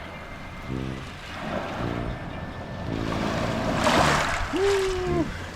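Sea waves washing in, one swell building to its peak about four seconds in, over soft sustained background chords. A short held tone that bends up and down sounds just after the wave.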